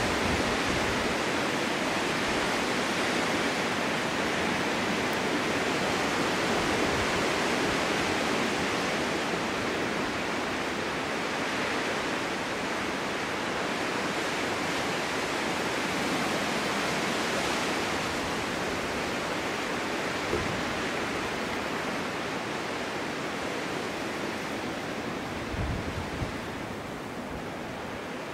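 Snowstorm wind blowing steadily in a snowy forest, a dense rushing noise that swells and eases slowly and drops off a little near the end. Two brief low thumps break through, about 20 seconds in and again near the end.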